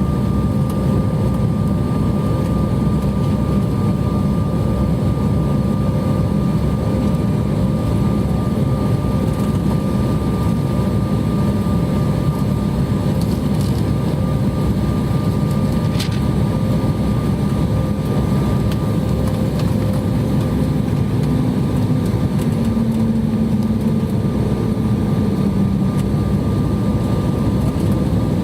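Jet airliner cabin noise heard from a window seat in flight: a steady roar carrying a few thin, steady engine tones. Near three-quarters of the way through, a low hum steps up slightly in pitch.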